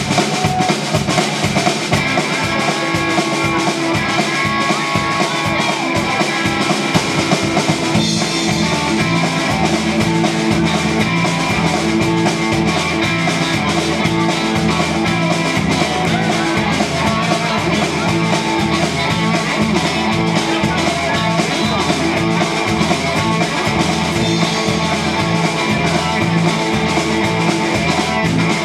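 Country-rock band playing, with drum kit and guitar. A bass line joins the drums about eight seconds in, and the full band plays on at a steady beat.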